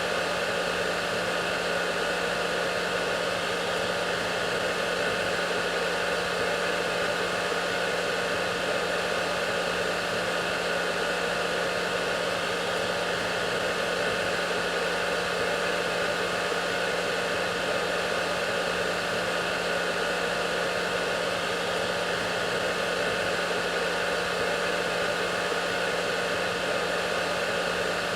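Hair dryer running steadily: an even rush of blown air with a constant low hum and a few faint fixed tones, unchanging throughout.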